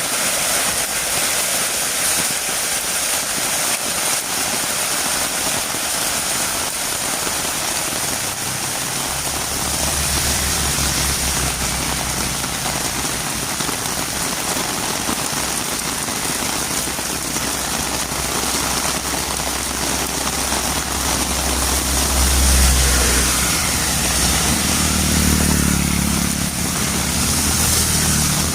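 Heavy rain falling steadily on a road, a constant hiss. About a third of the way in, the low hum of a motor vehicle's engine joins it, growing louder toward the end.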